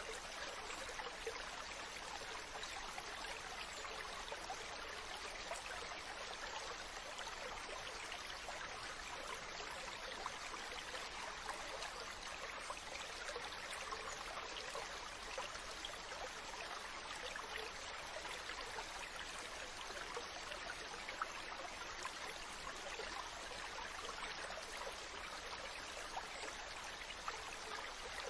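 Ocean water washing steadily, an even rushing hiss with no separate wave crashes standing out.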